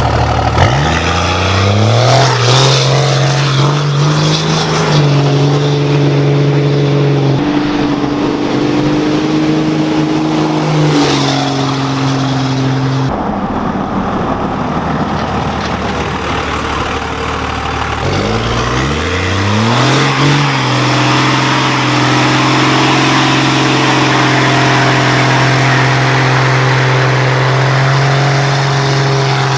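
Cummins diesel truck engine revving up and held at high rpm for a burnout, with a dense hiss of spinning tyres. About halfway through the revs fall away into a rough, noisy stretch, then climb again and hold.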